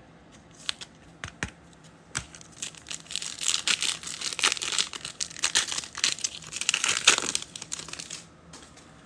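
A trading card pack's wrapper being torn open and crinkled by hand. A few light clicks come first, then about six seconds of dense crinkling.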